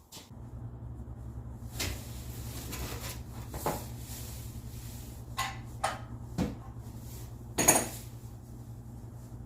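The Charger's 3.5-litre V6 idling with a steady low hum, as during an engine oil flush. Over it come about six sharp knocks and clatters of things being handled, the loudest near the end.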